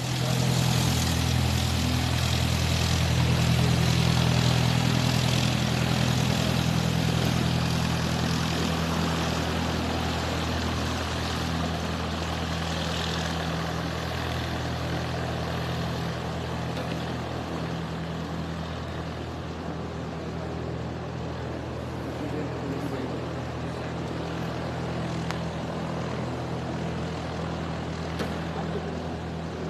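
Cessna 172's piston engine and propeller running at high takeoff power, a steady drone. It starts suddenly, is loudest about four seconds in, then slowly fades over the following twenty seconds.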